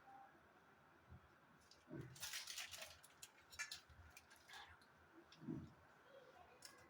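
Faint scraping and squishing of a spatula spreading icing over a cake layer, with a few light taps; otherwise near silence.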